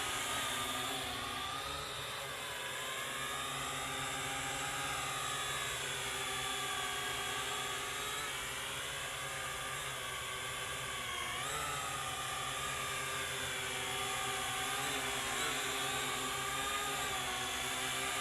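Syma X8HG quadcopter's motors and propellers whining in flight, the pitch rising and falling as the throttle changes.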